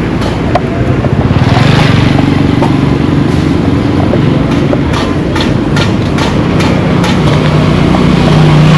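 A motor vehicle's engine running close by: a steady low drone over a loud rumble, swelling about a second and a half in and again near the end.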